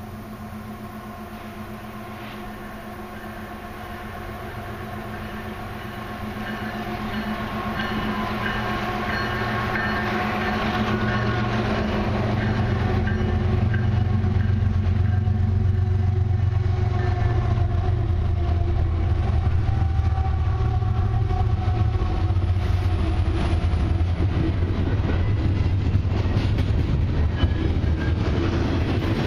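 CN freight train with a four-unit diesel locomotive consist approaching, its engines growing steadily louder over the first dozen seconds. Then a long string of double-stack intermodal well cars rolls past, wheels clicking over the rail joints.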